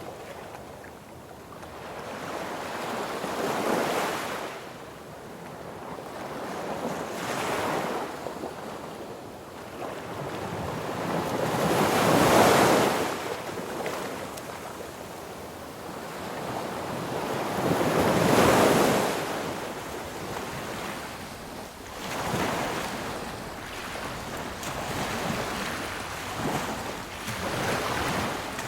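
Sea waves breaking on a beach, each wave swelling to a crash and washing back, with the two biggest breakers about twelve and eighteen seconds in.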